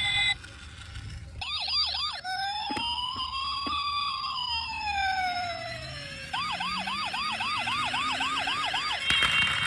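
Electronic toy emergency-vehicle siren: a short burst of quick yelps, then a slow wail that rises and falls, then rapid yelping about four sweeps a second.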